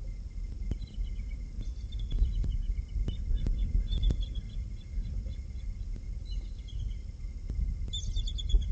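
Series of short, high bird chirps over a low wind rumble on the microphone, with scattered faint clicks; the loudest run of chirps comes near the end.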